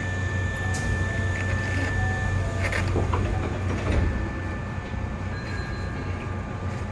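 Hankyu 7300 series electric train running, heard from the cab: a steady low rumble of wheels and running gear with thin steady high whines over it, a few light clicks, and a slight drop in loudness about four seconds in.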